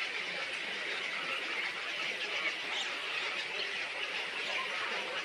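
Many small birds chattering and chirping together in a steady, dense chorus of high squeaky calls.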